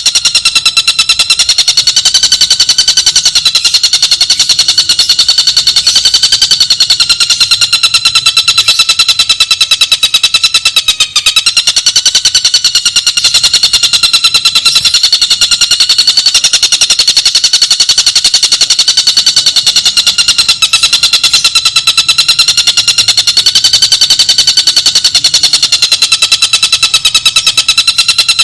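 A tengkek buto (kingfisher) giving a fast, unbroken trill of rapidly repeated notes at a steady, slightly wavering pitch.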